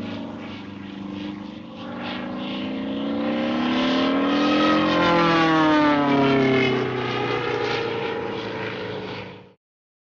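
Propeller airplane engine flying past, its pitch rising to a peak about halfway through and then falling as it grows louder and fades. The recording cuts off suddenly near the end.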